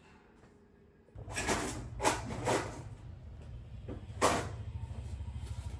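A restored stirrer's electric motor switched on about a second in, running with a steady low hum and a fast rhythmic rattle. Several loud scraping bursts come over it, the loudest near the middle.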